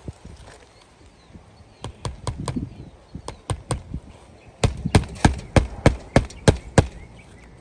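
Hammer driving roofing nails through 3-tab asphalt shingles: a few scattered taps, then a quick run of about nine hard strikes, roughly four a second, in the second half.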